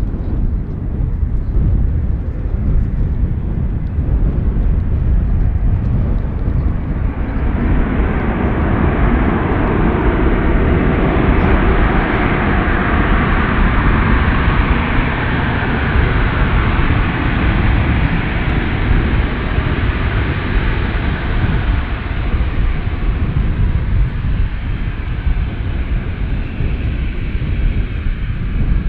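Airliner's engines passing by: the engine noise swells from about seven seconds in, peaks mid-way and slowly fades, over a steady low rumble.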